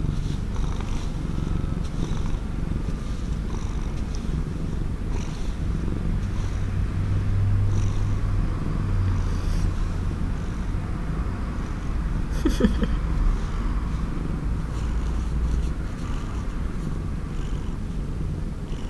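Domestic cat purring steadily in a low continuous rumble, content and affectionate. A brief sharp sound breaks in once about two-thirds of the way through.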